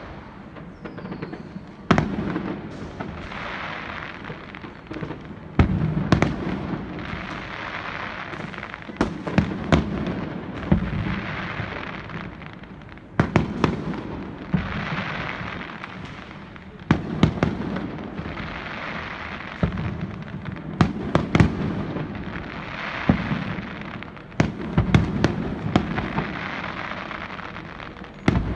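Aerial fireworks display: shells bursting with sharp bangs every second or two, often several in quick succession, with a rising and falling crackle between the bursts.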